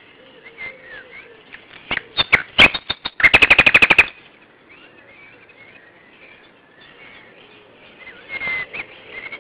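A loud, fast rattling bird call, about fifteen rapid notes in under a second, preceded by a few sharp clicks, over faint chirping of other birds. A shorter call follows near the end.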